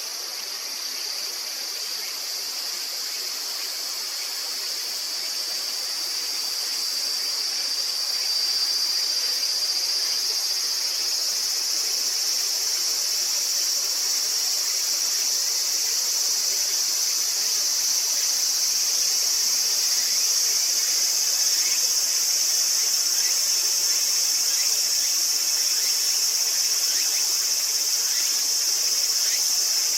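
Steady high-pitched insect chorus that swells over the first several seconds and then holds, over a fainter rushing of river water.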